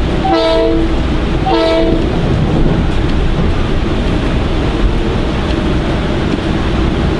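Two short train-horn blasts about a second apart within the first two seconds, over the steady running noise of a Metro-North electric commuter train heard from inside the passenger car.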